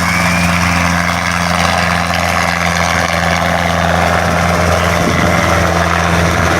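Helicopter running close by: a loud, steady low drone whose pitch holds constant throughout.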